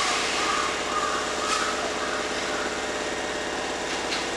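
Hankyu 6000 series electric train creeping in along a curved platform, with a wavering high squeal from the wheels in the first second and a half over a steady hum from the train.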